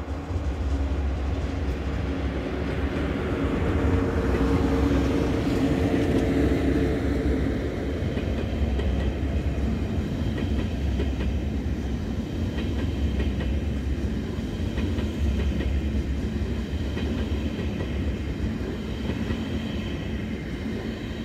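An ICE high-speed train passes at speed with a steady rumble of wheels on rails. A low hum comes in over the first several seconds and fades after about seven seconds. Through the later half, thinner high whining tones sound over the rail noise as the coaches go by.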